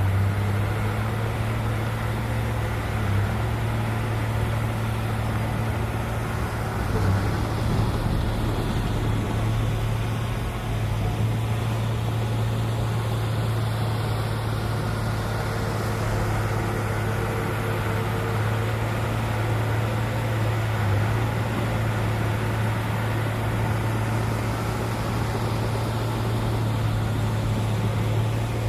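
Heavy diesel engine of earthmoving machinery running steadily, with a constant low hum.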